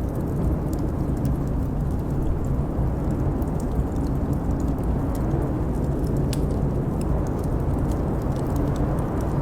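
Wood fire crackling in a fireplace, with scattered sharp pops, over a steady low rush of wind.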